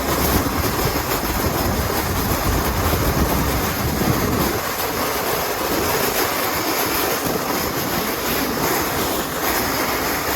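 A sled sliding fast over an ice sheet: a steady, loud scraping rumble whose low rumble drops away about four and a half seconds in.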